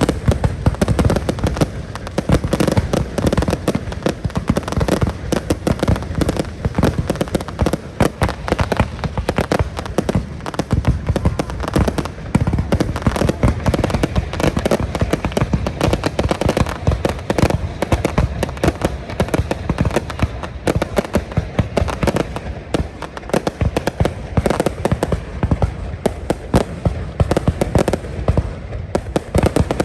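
Fireworks display: a dense, continuous barrage of shell bursts, bangs and crackling, with many reports overlapping.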